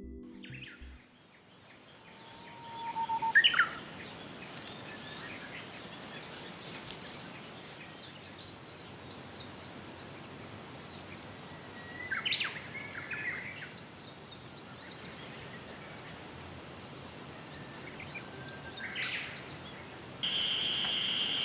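Scattered wild bird calls, short chirps and whistles a few seconds apart, over a steady outdoor hiss. A steady high-pitched drone starts about a second before the end.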